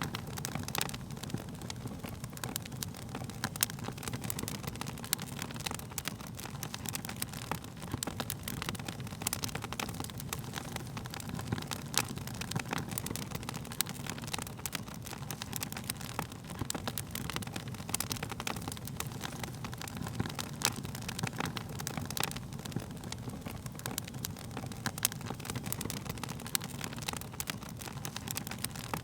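Wood fire burning in a fireplace: a steady low roar of flames with frequent sharp, irregular crackles and pops from the burning wood.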